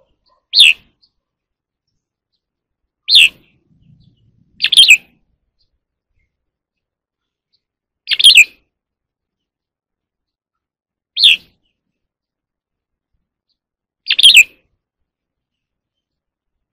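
Red-whiskered bulbul singing: six short, loud phrases, each under half a second, spaced one and a half to three seconds apart with silence between.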